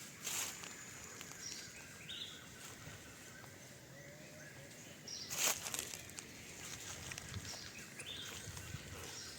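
Outdoor rural ambience with brief rustling noises, the loudest about five and a half seconds in, and a few short, high bird chirps.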